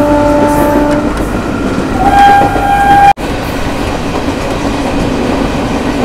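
Passenger train running along the track, its wheels and carriage giving a steady rumble, heard through an open carriage door. A train horn sounds until about a second in and again briefly about two seconds in; the sound breaks off abruptly about three seconds in and the steady rumble goes on.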